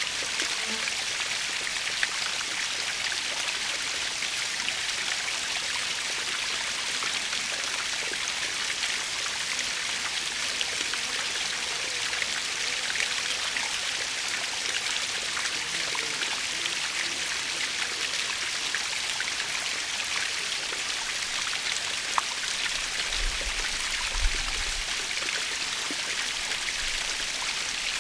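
Waterfall splashing steadily: a continuous hiss of falling water, peppered with small droplet splashes.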